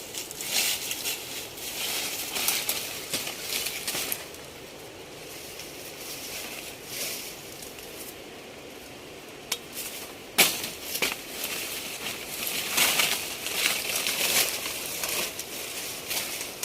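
Irregular rustling and crackling, like material being crumpled or crushed, with a few sharp snaps around the middle.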